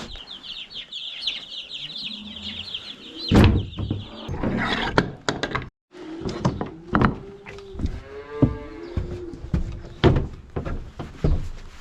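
A crowd of baby chicks peeping steadily and high-pitched, with a loud knock about three and a half seconds in. After a brief cut, chickens give repeated drawn-out calls that fall in pitch, among scattered short clucks and clicks.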